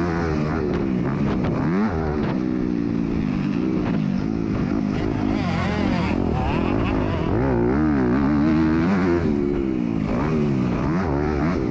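MX2 motocross bike engine racing around a dirt track, revving up and down repeatedly as the rider accelerates and backs off through corners and jumps, heard from an onboard camera.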